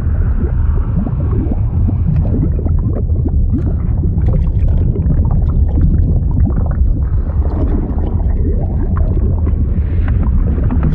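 A fluid sound effect of water bubbling and gurgling over a deep, steady rumble, like underwater ambience, with many small bubble pops.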